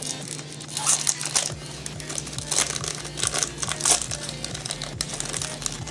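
Foil Yu-Gi-Oh booster pack wrapper crinkling as it is handled and opened, in a run of sharp rustles, with background music.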